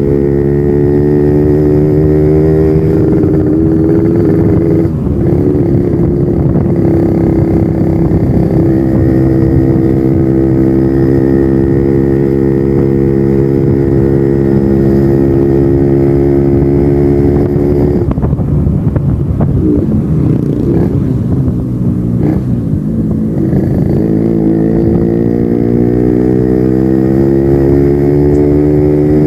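Yamaha RX-King's 135 cc two-stroke single-cylinder engine running through its stock exhaust while being ridden. The pitch climbs as it accelerates at first, then holds steady at cruising revs for a long stretch. About two-thirds through the note drops and wavers as the throttle comes off, then it climbs again under acceleration near the end.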